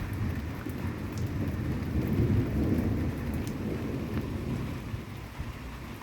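Rolling thunder rumble from a nearby thunderstorm, swelling about two seconds in and then slowly dying away.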